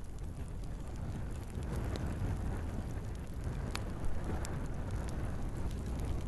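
Wood fire burning in a fireplace: a steady low rumble of the flames with a few sharp crackles and pops from the logs, the sharpest a little past the middle.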